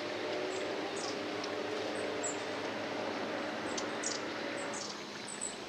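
Small wild birds giving short, high, thin calls every second or so over a steady outdoor background with a faint low hum.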